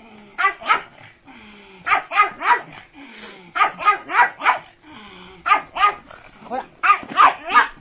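Pug barking in quick runs of two to four sharp barks, five runs with short pauses between them.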